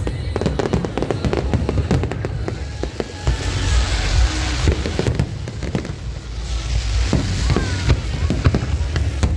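Aerial fireworks going off in rapid succession: a continuous run of sharp bangs over deep, rolling booms, with two stretches of dense crackling hiss, one about a third of the way in and another a little past the middle.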